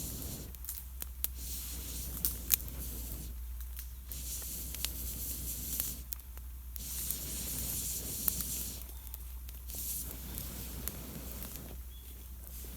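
Air blown through a fire-blowing pipe into a struggling campfire of wet wood: a hissing rush about two seconds long, repeated about four times with short pauses for breath between. Sharp crackles and pops come from the damp wood throughout.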